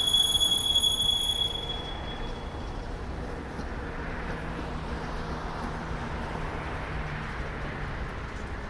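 Freight train rolling by with a loud, steady, high-pitched steel wheel squeal that stops about two seconds in, then the steady rumble of the passing cars.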